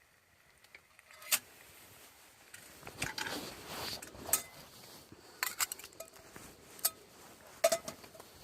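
Tableware clinking: several sharp clinks and knocks of utensils against dishes or pots, each with a brief ring, with some rustling between them.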